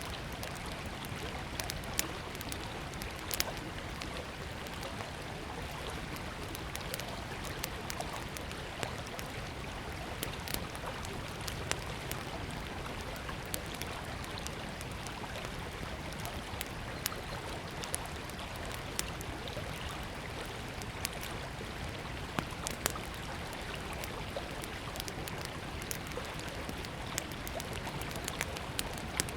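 Small wood campfire crackling with scattered sharp pops, over the steady rush of flowing river water.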